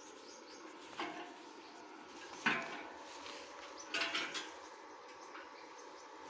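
Three short clattering knocks, like metal pieces being handled, about one, two and a half (the loudest) and four seconds in, over a steady background hiss.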